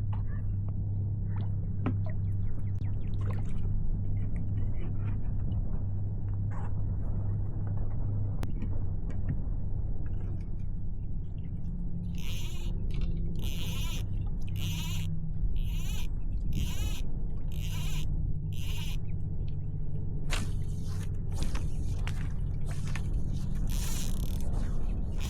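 Steady wind buffeting the microphone, a loud low rumble. From about halfway through, a run of short hissing sounds comes roughly once a second.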